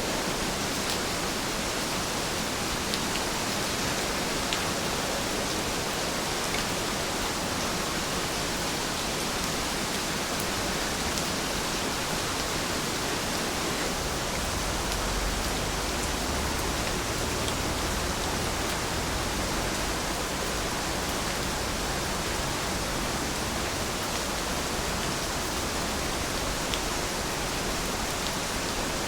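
Steady rain falling, an even hiss with a few faint drop ticks. A low rumble swells briefly about halfway through.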